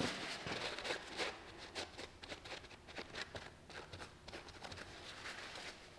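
Scattered light clicks and taps of hands handling the metal parts of an Allison transmission valve body as it is being taken apart, a few sharper knocks among them.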